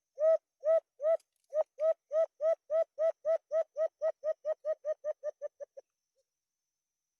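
A bird's call: a series of about twenty hollow hoots on one pitch, starting slow and speeding up, each note shorter and fainter than the last, ending about six seconds in.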